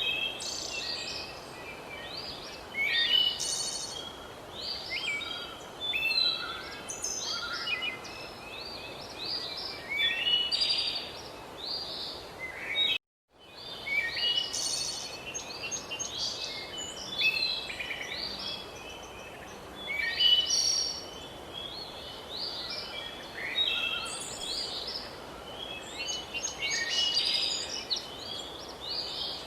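Forest bird chorus: many birds singing and chirping at once, overlapping short calls and trills over a steady background hiss. The sound cuts out completely for a moment about halfway through, then resumes.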